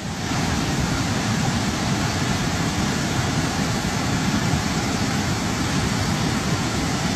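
Steady roar of fast-moving floodwater, a dense, even rush with most of its weight low down.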